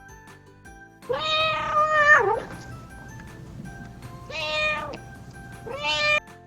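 Domestic cat meowing three times: one long meow, then two shorter ones.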